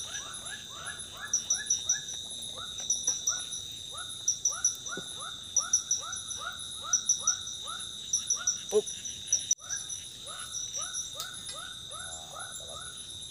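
Forest insects: a steady high drone with groups of quick chirps above it, over a run of short, falling calls from another animal repeating several times a second. The sound cuts out for an instant about two-thirds of the way through.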